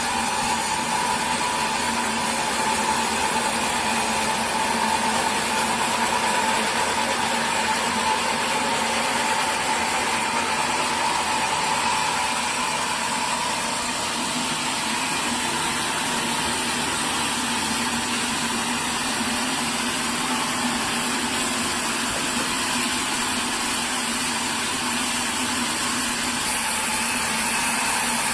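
Sawmill machinery running steadily: a continuous mechanical drone with a steady hum in it that holds the same level throughout.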